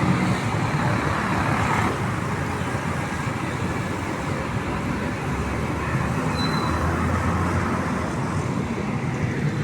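Steady road traffic noise, with a low engine hum that swells about five seconds in and fades about three seconds later.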